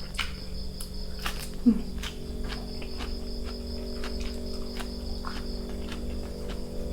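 Crickets trilling steadily, with irregular crisp clicks of someone chewing crunchy food. A brief louder low sound comes a little under two seconds in.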